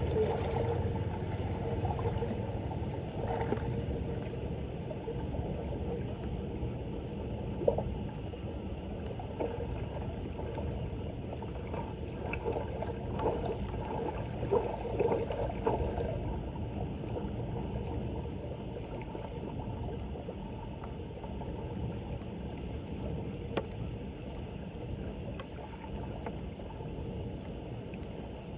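Floodwater sloshing and gurgling steadily at a clogged street drain, with a few sharp knocks.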